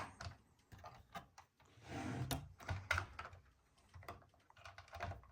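Plastic LEGO parts of the Dark Falcon model clicking and tapping lightly as pieces are handled and moved, a few scattered clicks with a brief sliding rustle about two seconds in.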